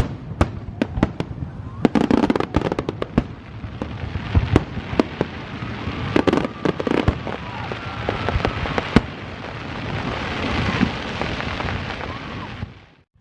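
Aerial fireworks going off in a rapid volley of sharp bangs and crackles. After about nine seconds the bangs thin out into a steadier crackling hiss, which cuts off suddenly near the end.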